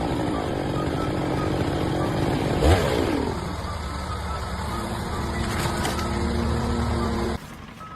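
A motor or engine running steadily, with one loud knock about two and a half seconds in followed by a falling pitch.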